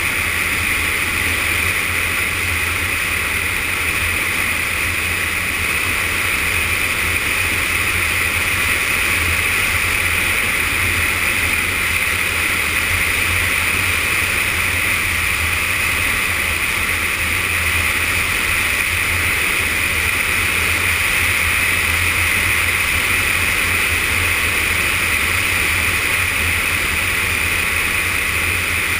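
Steady onboard sound of a Yamaha FZS 600 Fazer motorcycle being ridden, its inline-four engine droning under a constant rush of wind, with no change in pace or engine speed.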